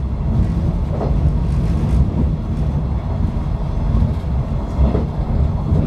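485-series electric train running along the track, a steady low rumble of wheels on rail heard from inside the rear cab.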